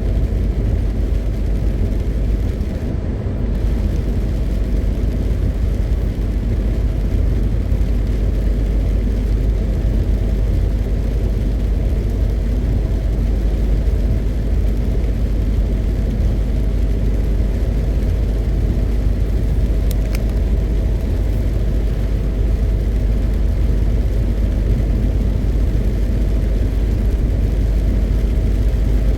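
MAN TGX 520 truck on the move: its diesel engine and road noise make a steady low rumble. A brief low thump comes about three seconds in, and a faint click about twenty seconds in.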